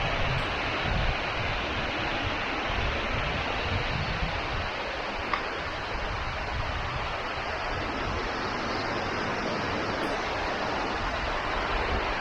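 Steady rushing of running water from a creek or falls, with low gusts of wind buffeting the microphone.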